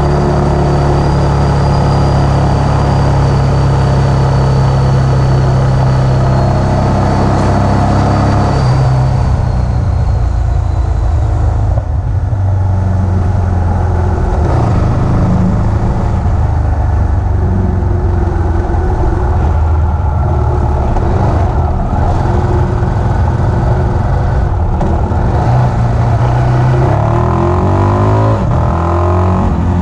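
Yamaha XT660R's single-cylinder four-stroke engine, breathing through an open exhaust, running hard under load as the bike is ridden. Its pitch changes about nine seconds in and slides up and down near the end.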